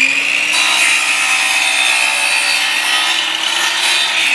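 Electric chop saw running at full speed with a steady high whine, its blade cutting through a board of composite decking; the cutting noise comes in about half a second in.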